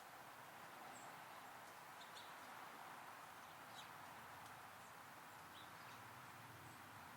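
Small songbirds at a backyard feeder giving short, faint, high chirps every second or so over a steady background hiss.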